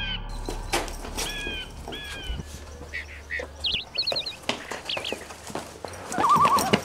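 Birds calling: a few short chirps that fall in pitch, a quick high trill about four seconds in, and a wavering call near the end, with scattered light clicks.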